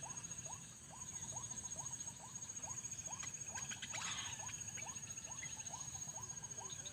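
An animal call, a short rising note repeated evenly about two to three times a second, over a steady high whine.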